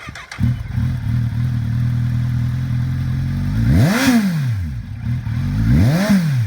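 2012 Kawasaki Z1000's inline-four engine with an aftermarket M4 exhaust firing up about half a second in and settling into a steady idle. It is then revved twice, the pitch rising and falling back near four and six seconds in.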